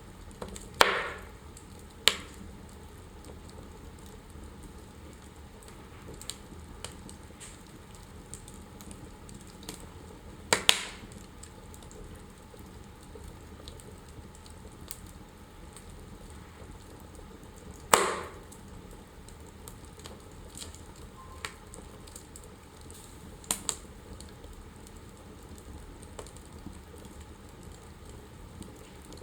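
Wood fire in a fireplace crackling over a soft steady hiss, with a handful of sharp, loud pops from the burning logs, spaced several seconds apart.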